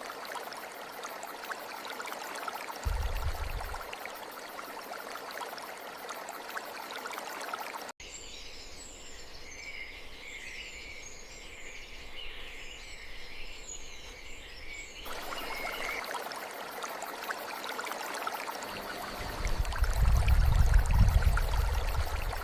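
Stream water flowing steadily. About eight seconds in it cuts to several seconds of small birds chirping with quick high calls, then the flowing water returns, and a deep low rumble swells up near the end.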